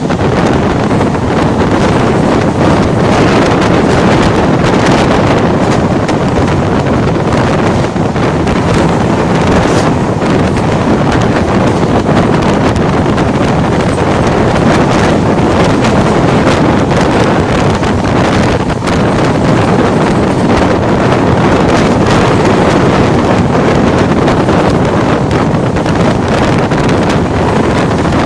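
Wind buffeting the microphone over the running noise of the Saraighat Superfast Express passenger train at speed, heard from an open coach door: a loud, steady rush with no pauses.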